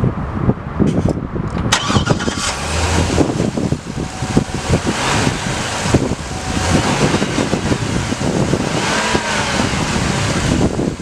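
The 2007 Chevrolet Corvette's aluminum LS2 V8 running, with a sharp click about two seconds in.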